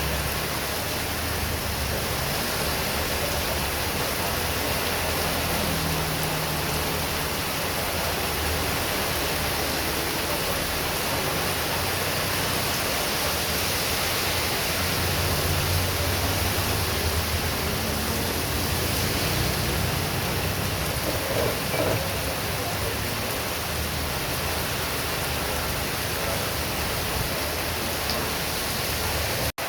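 Heavy rain falling hard in strong wind, a steady dense hiss with a low, uneven rumble of wind underneath.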